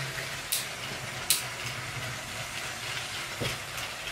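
Battery-powered Lego City cargo train running around plastic track: a steady motor hum and rolling hiss, with two sharp clicks in the first second and a half.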